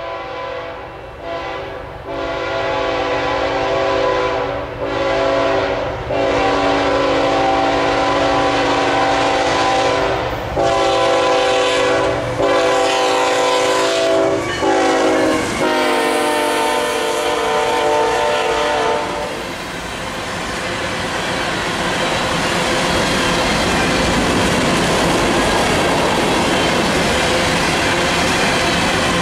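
Canadian National freight locomotive's multi-note air horn sounding a series of blasts on approach, its chord dropping in pitch as the locomotive passes, then the empty iron ore hopper cars rolling by with steady wheel clatter for the last ten seconds or so.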